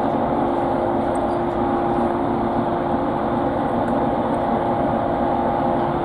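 Steady hum of a train heard from inside the passenger car, with two held steady tones over an even rumble.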